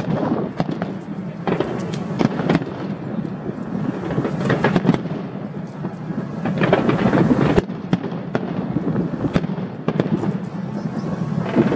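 Fireworks display: a continuous rumble of aerial shell bursts with many sharp cracks and bangs, heaviest in clusters about a second in, around the middle and about two-thirds of the way through.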